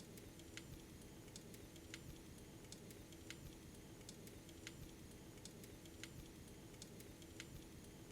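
Faint crackling of a fireplace fire: small sharp pops at irregular intervals, a few a second, over a steady low hum.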